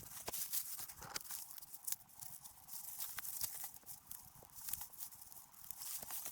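A quick, irregular run of light clicks and taps, several a second, over a faint hiss.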